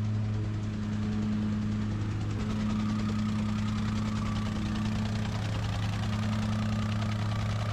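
Engine of a piece of site equipment running at a steady idle, with a constant low hum and an even clatter.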